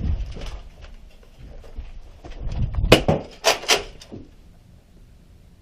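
Scuffling and thumping of people moving off at the start of a Nerf game, then a quick cluster of four or five sharp knocks about three seconds in.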